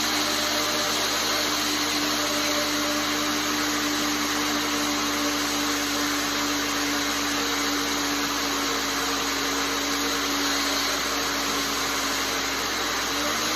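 Belt grinder running steadily, its motor humming under the hiss of the abrasive belt, the pitch sagging briefly near the end.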